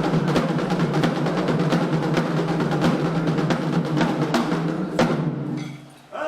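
Fast, dense Candomblé hand drumming on atabaques that stops about five and a half seconds in.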